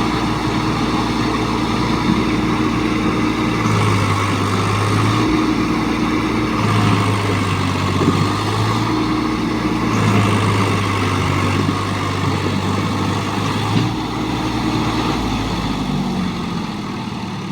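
Swaraj 744 tractor's three-cylinder diesel engine working under heavy load, hauling a sand-laden trolley. Its note shifts between a lower and a higher pitch several times as the throttle and load change.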